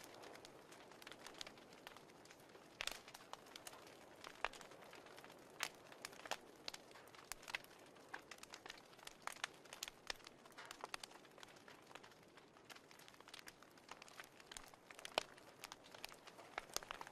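Fireplace fire crackling: irregular sharp pops and snaps over a faint hiss.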